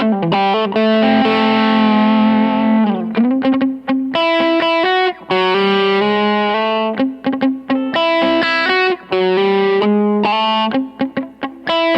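PRS Modern Eagle V electric guitar played solo lead licks: a long held note that slides down in pitch about three seconds in, then runs of quick notes broken by shorter held notes.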